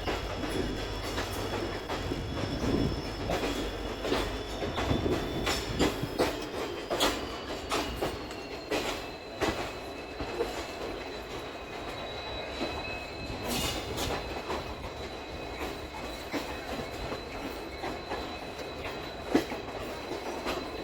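Passenger train running on the rails: wheels click irregularly over rail joints under a steady rolling rumble, with a thin high-pitched wheel squeal held throughout.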